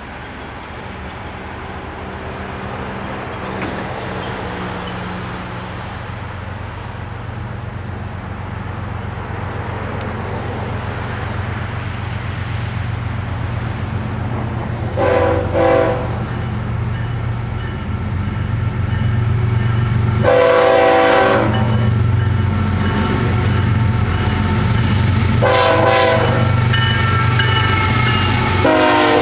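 Approaching diesel freight train led by GE ES44C4 locomotives: a low engine rumble that grows steadily louder as it nears. The locomotive's air horn blows four times from about halfway through, the second blast the longest and loudest.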